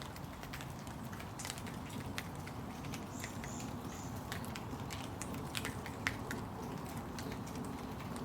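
Rain falling: a steady low hiss with scattered drops pattering and ticking on nearby surfaces. Three short high chirps come about three seconds in.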